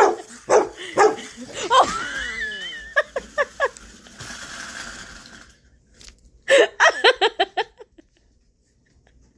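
A dog barking in short, repeated barks that come in several runs, with a rising, wavering tone about two seconds in.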